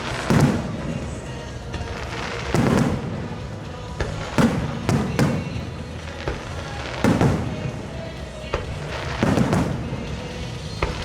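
Aerial fireworks shells bursting one after another, about nine sharp booms a second or two apart, each trailing off in a crackling tail, with music playing underneath.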